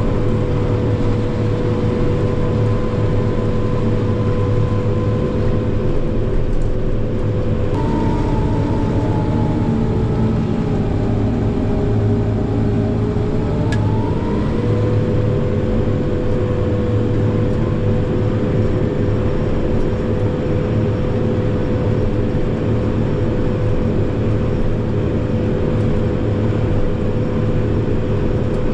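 Tractor and PTO-driven forage chopper running steadily while chopping corn silage, with a constant whine over the engine drone. About eight seconds in the whine drops in pitch as the machine comes under load, and it recovers about seven seconds later.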